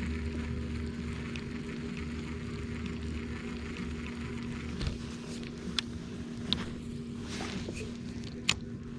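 A steady, even motor hum, with a few light clicks and taps in the second half.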